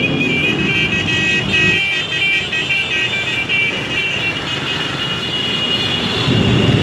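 Motorcycle running with a steady rumbling engine and road noise, and music playing over it. High stepping notes are heard for the first four seconds or so, then fade.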